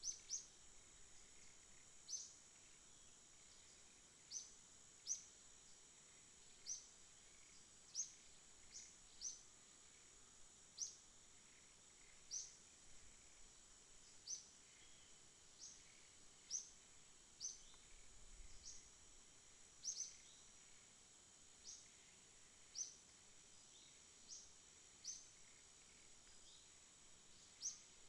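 Night ambience: a steady high-pitched insect drone with short, high chirps repeating irregularly, roughly one a second.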